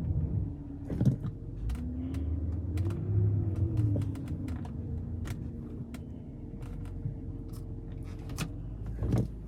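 1998 Audi A8's engine running during a drive, its note rising and then falling about two to five seconds in, with irregular sharp clicks and light knocks throughout.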